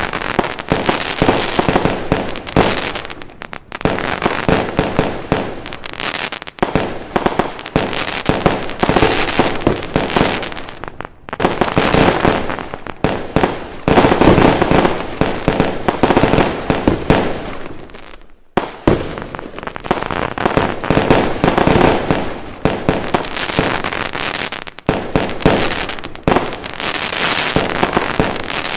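Fireworks going off in quick, continuous volleys of bangs and crackles, in several long runs with brief lulls between them.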